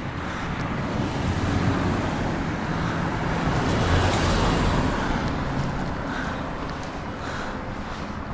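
A car passing by, its engine and tyre noise growing louder to a peak about halfway through and then fading away, with wind on the microphone.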